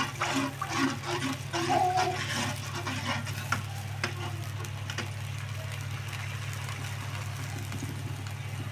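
Blended chili paste frying in oil in a wok, being sautéed until cooked through. A metal spoon stirs and scrapes the pan for the first four seconds or so, then the paste sizzles steadily. A steady low hum runs underneath.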